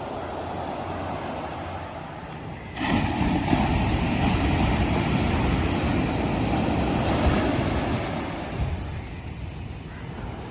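Ocean surf rolling onto a beach: about three seconds in, a wave breaks with a sudden rise in loud rushing noise that holds for about five seconds, then eases back to the softer steady wash.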